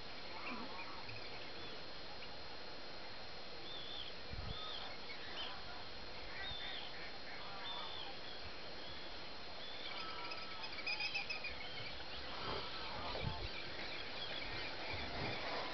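Short, high bird calls scattered over a steady outdoor background hiss, with a quick run of calls about eleven seconds in.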